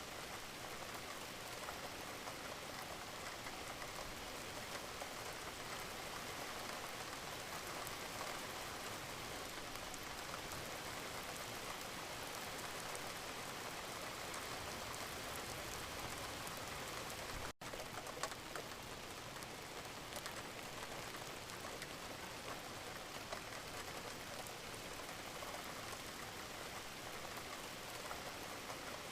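Steady rain falling: an even hiss with fine drop ticks throughout, broken once by a split-second dropout a little past the middle.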